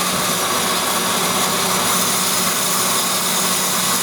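Doall DC-330NC automatic horizontal bandsaw running with its blade drive and hydraulic pump on: a steady machine hum under a high hiss.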